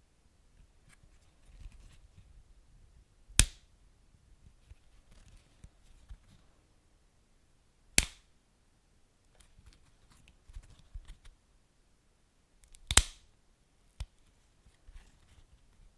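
Wood fire crackling: three loud, sharp pops about five seconds apart and a smaller one near the end, with faint scattered crackles between them.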